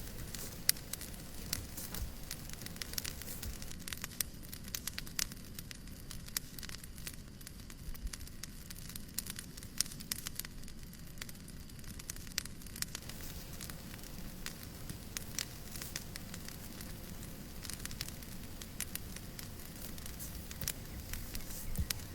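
Fireplace crackling: irregular sharp pops and snaps of burning wood over a steady low rumble of flames.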